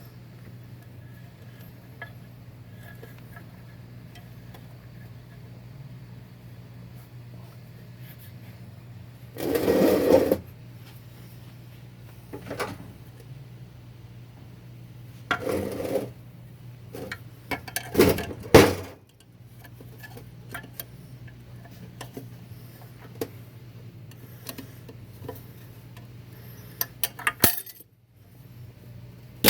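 Metal parts of a 4L60-E automatic transmission clinking and knocking as they are handled and pulled apart, with a few louder noisy rushes about a second long, over a steady low hum.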